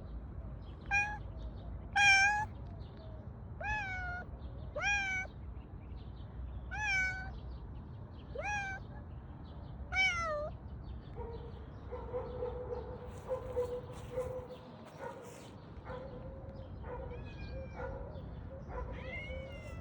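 Cat meowing repeatedly: about seven loud, short meows in the first ten seconds, each bending up and down in pitch. After that come a few fainter meows over a faint steady hum.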